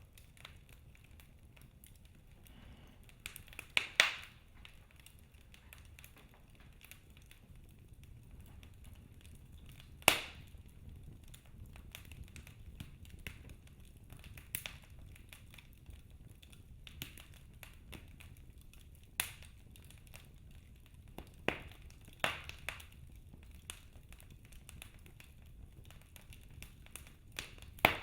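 Wood fire burning in a fireplace: a low steady rumble with irregular sharp pops and cracks from the burning logs, the loudest about four and ten seconds in.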